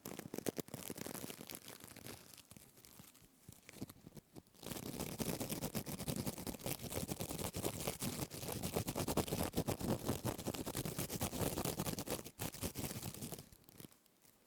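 A plastic scourer being rubbed and squeezed close to the microphone, giving a dense, crisp crackling. It starts soft and turns louder and steadier about four and a half seconds in, then fades near the end.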